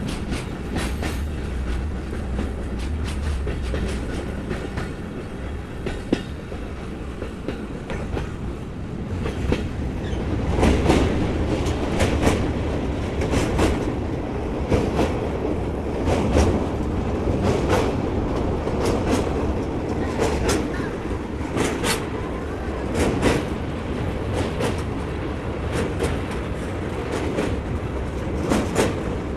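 Passenger train running on track: a steady rumble with wheels clacking over rail joints, the clacks coming regularly about every second and a half from about nine seconds in.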